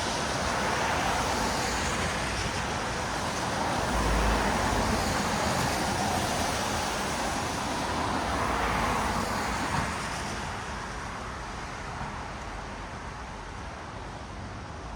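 Road traffic passing on a wet city street: tyres hiss on the wet asphalt under a steady hum of vehicles. The noise eases over the last few seconds.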